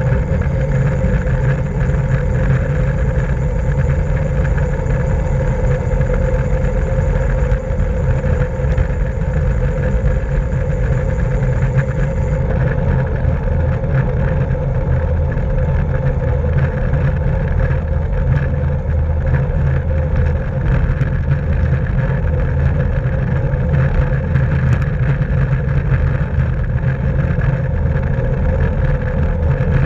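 Steady wind and road rumble on a camera microphone moving at racing speed on a bicycle. A thin, high, steady whine sits over it and cuts off about twelve seconds in.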